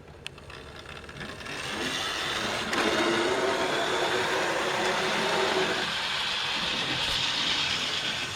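OO gauge Wrenn 0-6-0 tank locomotive pulling away with three coaches: its small electric motor and wheels on the rails build up over the first two seconds into a steady whirring run.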